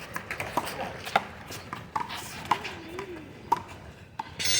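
Irregular sharp knocks and taps, a few a second, with a brief shrill squeal near the end.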